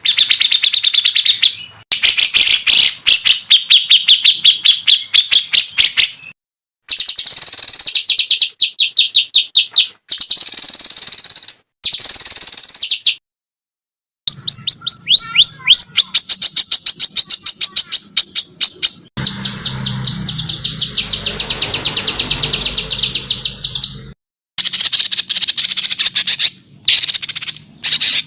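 Songbird song edited into a masteran training track: fast rattling runs of sharp repeated chirps, some clear and some harsh, in bursts a few seconds long, cut apart by abrupt silences where clips are joined.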